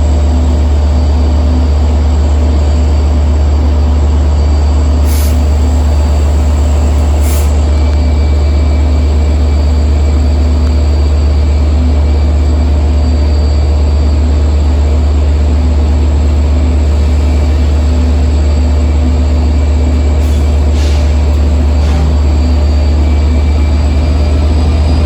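LIRR DE30AC diesel-electric locomotive running with a loud, steady low drone and a steady whine above it, broken by a few brief sharp clicks. Near the end the pitch starts to rise as the locomotive throttles up to pull away.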